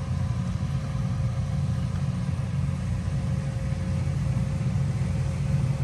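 An engine running steadily: a low, even rumble with a faint steady whine above it.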